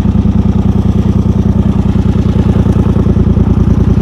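Engine of a small ride-on vehicle running steadily at a constant speed, with an even rapid pulse to its note.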